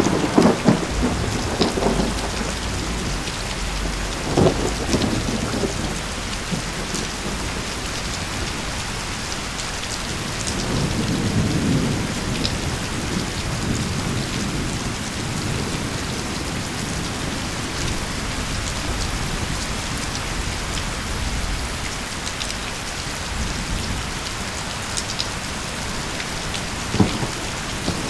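Steady rain with thunder: a sharp thunderclap right at the start that crackles on for a couple of seconds, another crack about four seconds in, a low rumble near the middle, and a short crack near the end.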